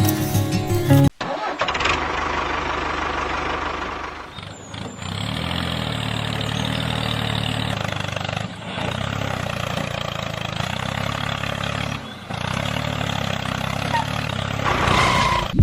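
Engine running steadily, with short dips that split it into several stretches. Music ends about a second in.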